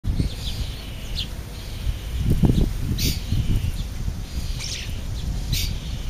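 Birds calling with several short high chirps and two sharp, brief calls about halfway and near the end, over a constant low rumble.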